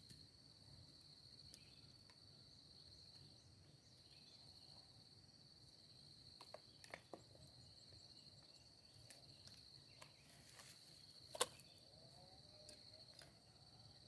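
Faint, steady high-pitched trilling of insects, like crickets. A few light clicks about halfway through and one sharper tap a couple of seconds before the end.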